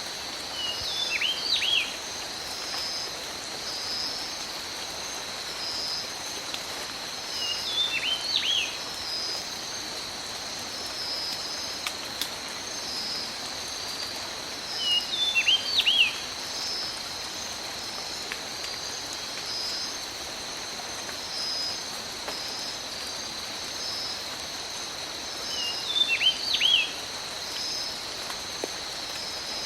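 Steady tropical rain, with a continuous insect drone and a pulsing insect chirp over it. A bird calls a short phrase of quick falling whistles four times, about every seven seconds.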